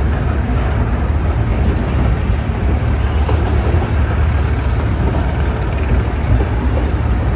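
Amusement-park train running on its track, a steady low rumble.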